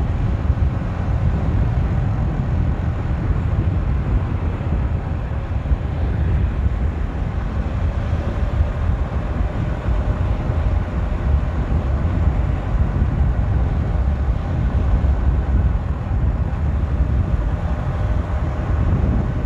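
Motorcycle on the move with heavy wind rumble on the microphone, a steady low noise with the engine barely standing out beneath it.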